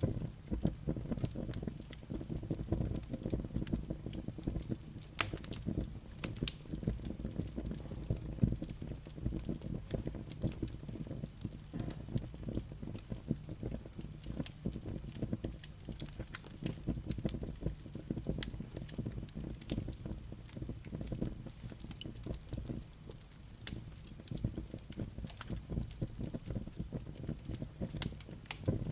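Wood fire burning in a fireplace: a steady low rumble of flames with dense, irregular crackles and pops from the burning logs and embers.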